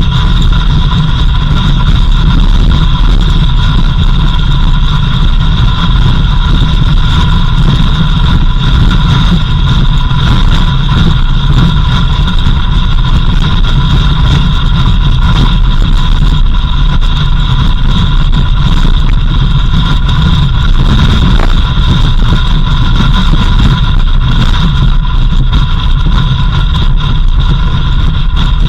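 A vehicle driving steadily with its engine running, giving a constant low noise with a steady high whine over it.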